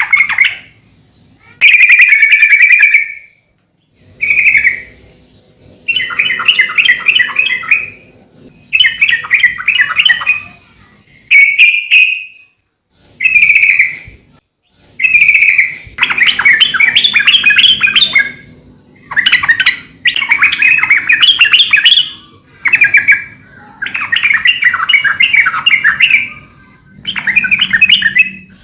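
Yellow-vented bulbul (trucukan) singing loud, bubbly, rapid chattering phrases of one to two seconds each, about a dozen of them with short pauses between. This is the vigorous 'gacor' song used as a training recording.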